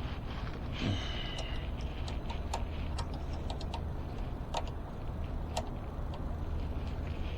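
Upturned e-bike wheel spinning with irregular ticking as something on it rubs and knocks each turn, over a steady low hum. The rub persists after the brake cable adjustment; its cause is unknown, as it does not look like it is hitting the brake caliper.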